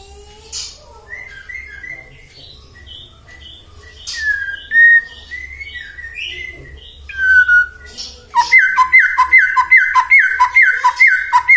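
White-rumped shama singing a varied run of clear whistled phrases. Past the middle it breaks into a loud, fast series of repeated down-slurred notes, about three a second.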